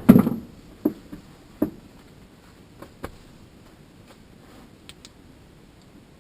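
A loud knock, then scattered light clicks and taps as furnace parts and tools are handled; the blower is not running.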